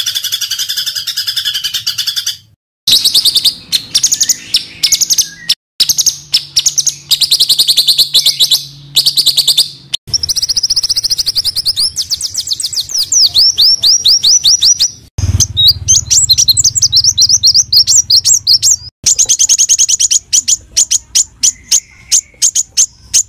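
Small songbirds calling in fast, dense runs of sharp high chirps, many per second, with a continuous chattering trill at the start. The calls come in short clips spliced one after another, each cutting off abruptly.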